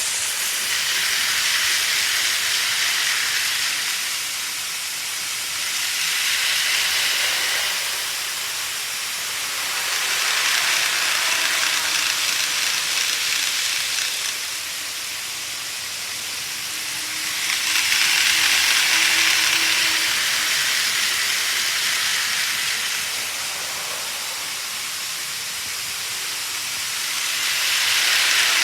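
Model train running on its track layout: a steady whirring hiss of wheels on rails that swells and fades repeatedly as the train passes near and away.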